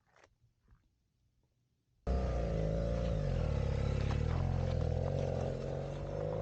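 BMW F700GS motorcycle's parallel-twin engine running at low speed, its pitch wavering slightly; the sound cuts in suddenly about two seconds in after near silence.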